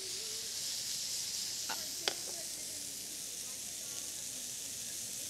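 Grape tomatoes and strips of meat sizzling in a hot frying pan: a steady hiss, with a single sharp click about two seconds in.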